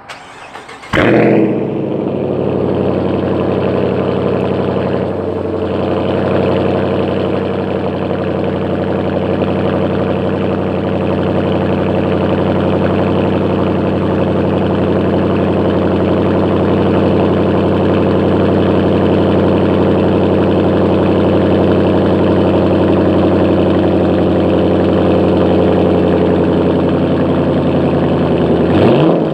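Engine cold-started: it catches about a second in with a loud burst, then settles into a steady cold idle. The revs begin to rise just before the end.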